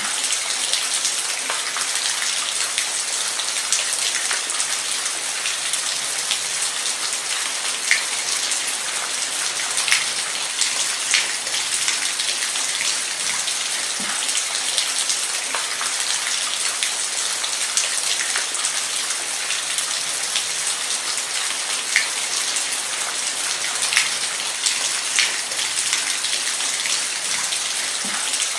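Steady rain falling, an even hiss with scattered sharper drops striking a surface here and there.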